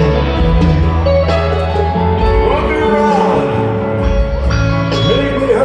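Live rock band playing an instrumental passage: electric guitar lines that bend in pitch over steady bass and drums.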